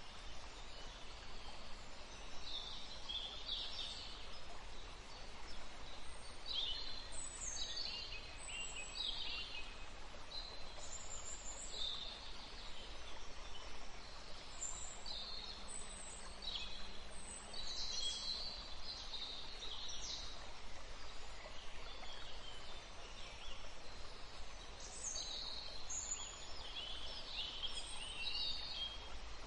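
Many short, high bird chirps from several small birds, scattered throughout over a steady low background noise.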